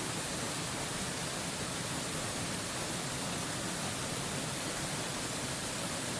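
Waterfall white noise: a steady, even rush of falling water with no changes or breaks.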